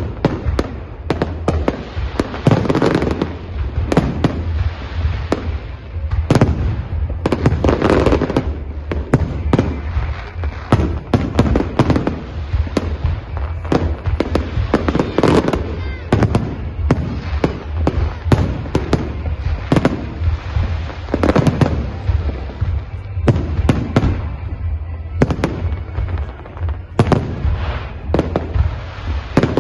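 Professional fireworks display: a rapid, continuous run of shell bursts and bangs, with denser, louder stretches every few seconds.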